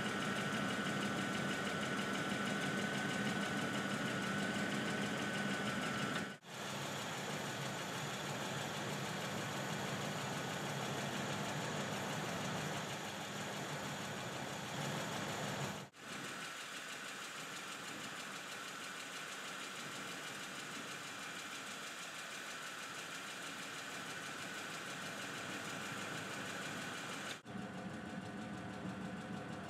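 A Ford Expedition's V8 engine idling steadily, heard in separate takes that break off suddenly three times. A thin high whine rides over the idle in places.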